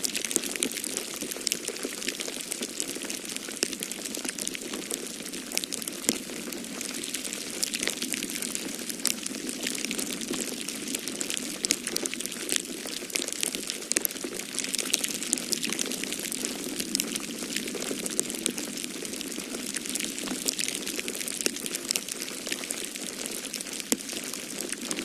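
Wood fire crackling in a fireplace, with frequent small snaps and pops over a steady rush of snowstorm wind.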